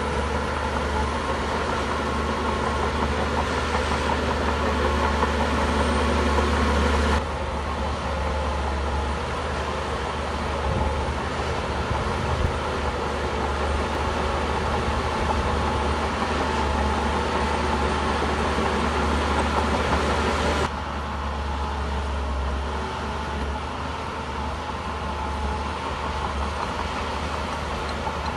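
Shantui bulldozer's diesel engine running steadily under a low hum, the sound changing abruptly twice.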